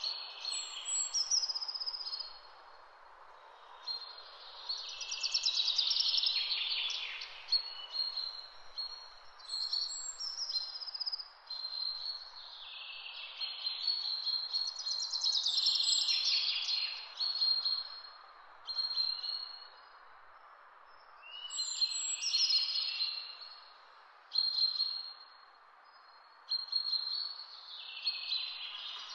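Songbirds singing: repeated chirps and fast trills, with louder spells of song every several seconds, over a steady soft hiss.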